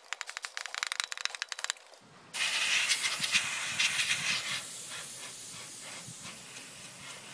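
Compressed air blasting dust out of a computer's rear case fan: first a rapid fluttering hiss, then about two seconds in a louder steady hiss that slowly fades.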